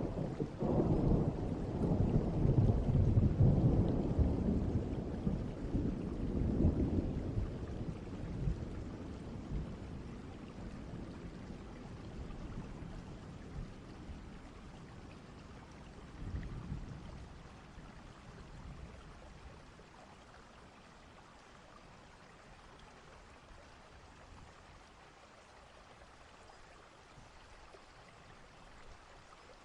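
Distant thunder rumbling over steady rain: a long, deep roll of thunder in the first several seconds that dies away gradually, a smaller rumble about halfway through, and the rain hiss fading low near the end.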